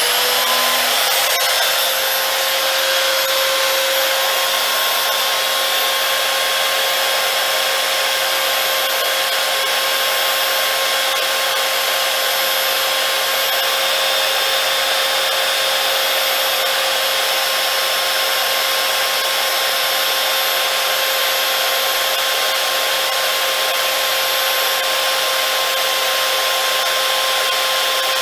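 Steinhaus PRO-BS1010 belt sander running steadily with no pause, a steady whine over a loud even rush of noise. Its pitch settles in the first second after start-up.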